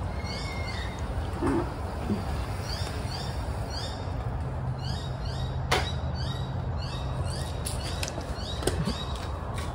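Birds calling in the background: many short, high, downward-sliding chirps repeated in quick runs, over a steady low hum, with one sharp click a little past halfway.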